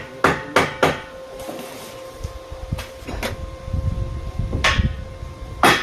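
Sharp knocks of hammering: four quick strikes in the first second, then a few single strikes spaced a second or more apart, over a faint steady hum.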